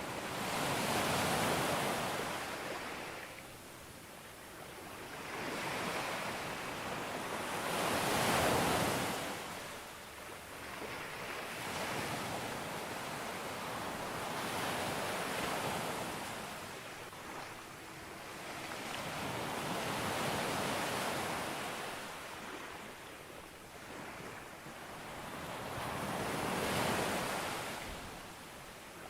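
Sea waves breaking and washing up a beach, each surge swelling and fading every few seconds, the loudest about eight seconds in.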